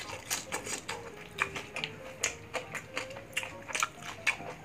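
Mouth-close chewing of crispy deep-fried pork belly (bagnet) and rice: a rapid, irregular run of crunches and wet mouth clicks. Quiet background music with a simple melody plays under it.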